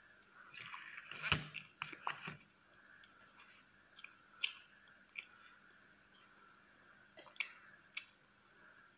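Close-miked mouth sounds of eating soft whipped-cream cake: a cluster of wet chewing and smacking clicks in the first couple of seconds, then single sharp mouth clicks every second or so.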